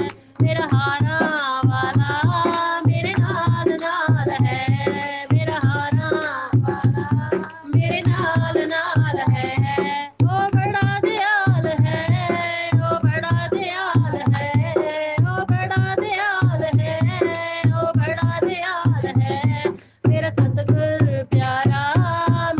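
Punjabi devotional song (bhajan): a voice singing a wavering melody over a steady drum beat, with a few short breaks in the music.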